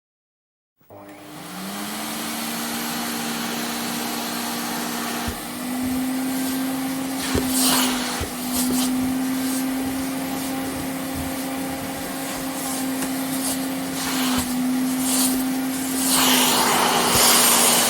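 An electric motor appliance switches on about a second in, its hum rising quickly in pitch and then holding steady over a rushing, airy noise. The noise surges several times and is loudest near the end.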